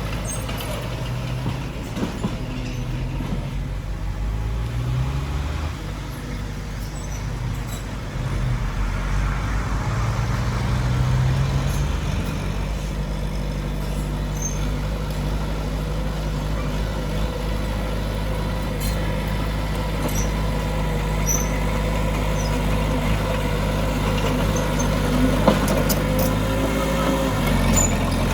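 Heavy diesel engine of earthmoving machinery running, its pitch rising and falling several times as it works under changing load.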